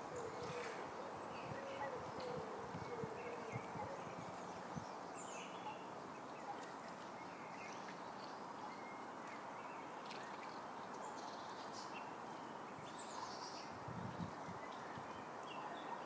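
Scattered short, high bird chirps and a couple of falling calls over a steady outdoor background hiss, with a low wavering hooting tone in the first few seconds.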